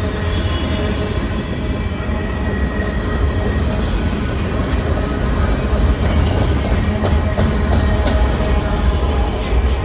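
Train running on the rails: a steady, heavy rumble with faint steady higher tones over it.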